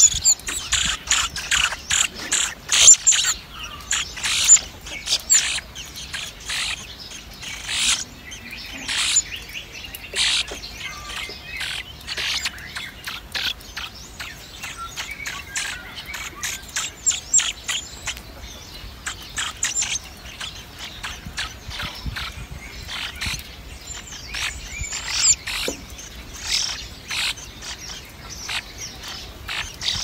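Many short, high bird chirps in quick clusters, busiest and loudest in the first ten seconds and again near the end.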